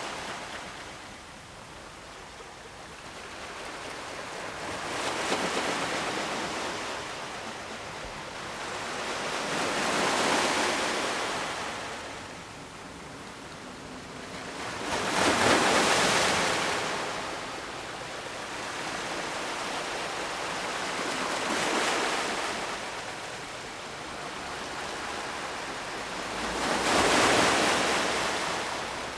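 Ocean surf: waves wash in and draw back in slow swells of hiss about every five to six seconds, the loudest about halfway through and near the end.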